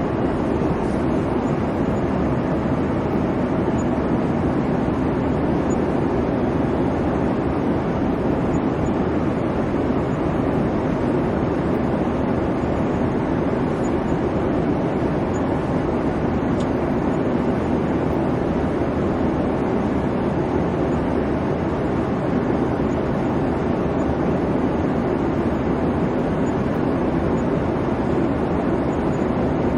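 Steady airliner cabin noise: the low engine hum and airflow rumble of a jet in cruise, unchanging throughout.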